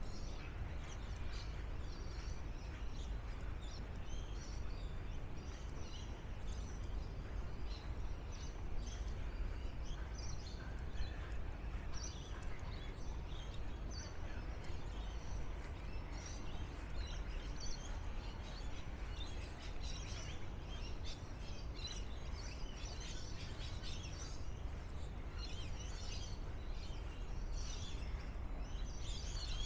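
Birds chirping and calling in many short, overlapping notes over a steady low background rumble. The calls grow busier near the end.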